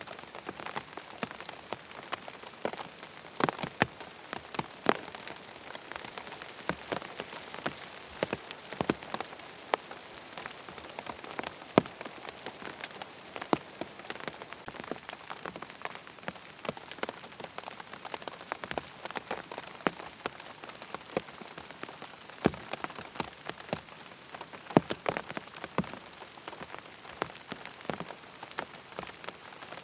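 Steady rain falling on a surface, an even hiss dotted with frequent sharp, irregular taps and pops.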